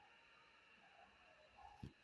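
Near silence: faint room tone, with one soft low thump near the end.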